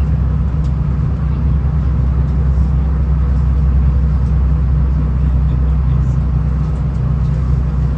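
V/Line VLocity diesel railcar under way: a steady low drone of the diesel engines and running gear with track rumble underneath, and a few faint light ticks.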